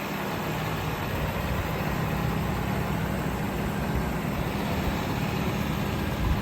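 Ford F-350 utility truck's engine idling steadily, with a low even hum.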